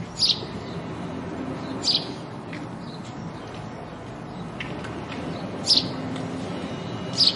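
House sparrows chirping: four loud, short chirps spread a second or more apart, with fainter chirps between them, over a steady low background noise.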